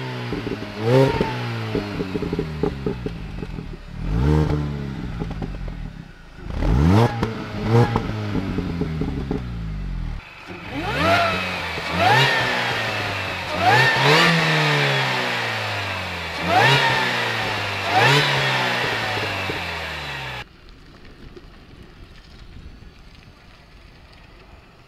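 The supercharged four-cylinder engine of a Mini John Cooper Works GP (R53) being revved repeatedly: about nine sharp blips, each rising quickly in pitch and then falling back. A little past 20 seconds in, the engine sound cuts off abruptly and only faint background noise remains.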